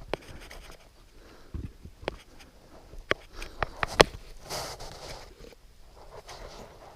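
Irregular knocks and scuffs of a person moving over rock on foot, with a short soft rustle about two-thirds of the way through.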